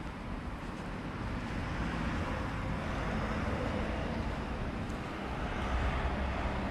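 A vehicle passing by: a wash of noise that swells about a second in and holds, with a deeper rumble building near the end.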